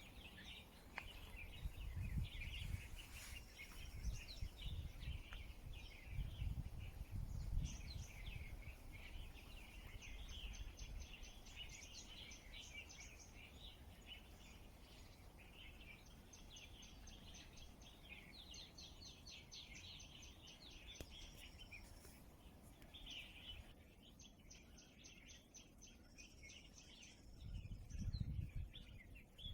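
Wild birds chirping and calling, with several rapid high trills. A few low rumbles come and go, near the start and again near the end.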